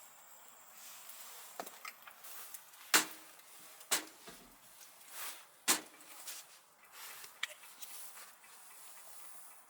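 A few sharp, hard knocks and clicks at irregular intervals, the loudest about three seconds in and again near six seconds, with softer handling noise between them.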